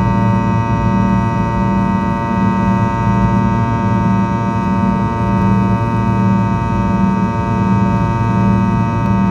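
Fokker 100 jet engines running steadily at high power: a loud drone with a whine of many steady tones over a low hum, and a low throb that swells and fades about every two-thirds of a second.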